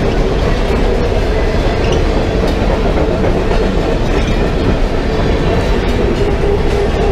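Train cars rolling past close by: a loud, steady rumble of wheels on rail with a constant mid-pitched hum and scattered faint clicks.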